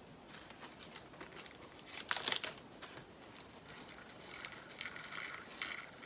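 Small plastic bags of diamond painting drills crinkling as they are handled, with the tiny resin drills rattling as they are tipped into a storage pot, in irregular bursts about two seconds in and again near the end.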